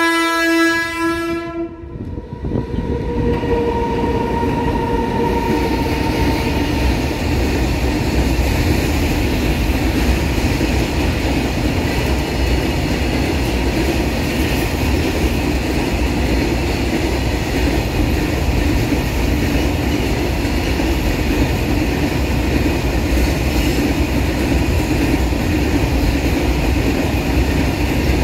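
An Indian Railways WAG-12 electric locomotive's horn sounds for about two seconds at the start. A fainter steady whine then fades over the next few seconds. A freight train of hopper wagons then passes close by with a steady rumble and clatter of wheels on the rails.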